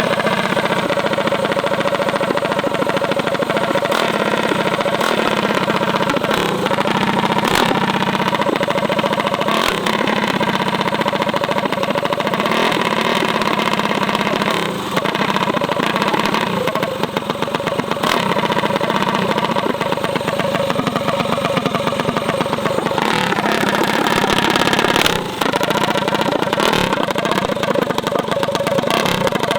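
Small mini bike engines running, with some revving.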